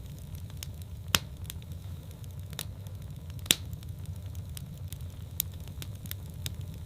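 Wood fire in a fireplace burning with a steady low rumble and scattered sharp crackles, two louder pops about a second in and past the middle.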